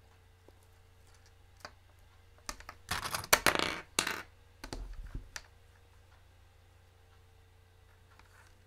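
Small plastic sewing clips being snapped onto a zipper and fabric: a few light clicks, then a denser spell of clicking and rustling about three to four seconds in, and a few more clicks around five seconds.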